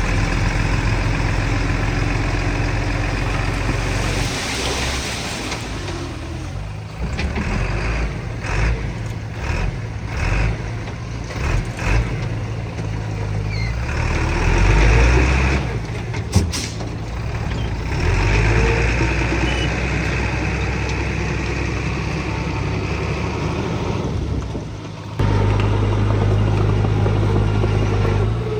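Heavy earthmoving machinery's diesel engines running and working under changing load, with stretches of hissing and a sharp click about sixteen seconds in.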